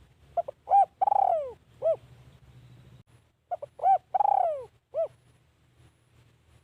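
Spotted dove cooing: two calls about three seconds apart, each a couple of quick short coos followed by a long coo falling in pitch and a short closing note.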